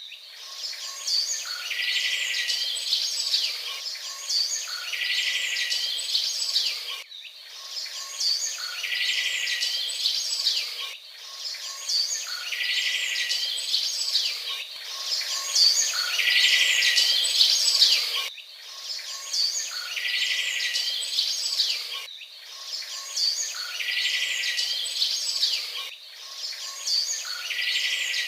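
Several songbirds singing: busy chirps and whistles, with a buzzy trill that recurs every few seconds.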